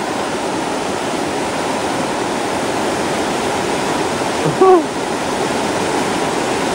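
Creek water rushing steadily over rocks. About four and a half seconds in, one brief voice-like sound with a falling end is heard over it.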